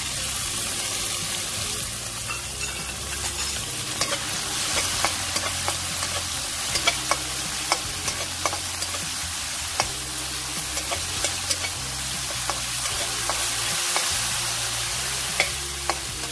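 Minced beef and chopped garlic frying in hot oil in a wok, a steady sizzle. A slotted metal spatula stirring them clicks and scrapes against the wok many times.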